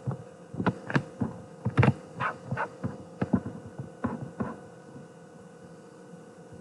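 Computer keyboard keys tapped in irregular short runs of clicks, stopping about four and a half seconds in, over a steady electrical hum.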